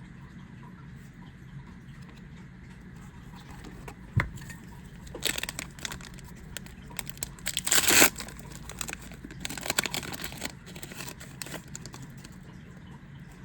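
Foil Yu-Gi-Oh! booster pack being torn open and crinkled by hand. A single knock comes a few seconds in, then spells of crinkling, with the loudest rip about two-thirds through.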